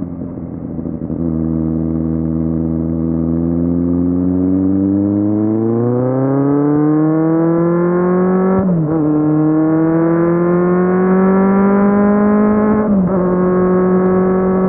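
Kawasaki Z750 inline-four motorcycle engine under way: it winds down and runs low for a few seconds, then accelerates, its pitch climbing steadily, with two quick upshifts about halfway and near the end.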